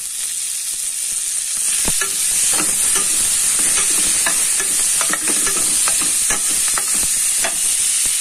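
Prawns, bacon and garlic sizzling in hot oil in a frying pan. From about two seconds in, a metal spatula scrapes and taps against the pan again and again as they are stirred.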